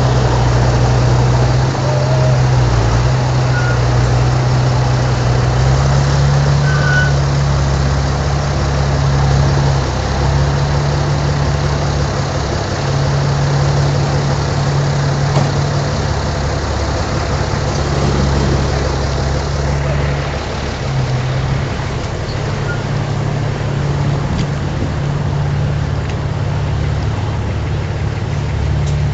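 Heavy diesel earthmoving machinery running, the engine note holding steady with small step changes in pitch as the load shifts.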